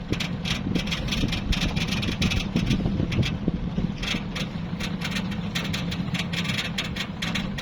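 Small boat's engine running steadily at low speed, a constant low drone, as the boat eases toward its mooring.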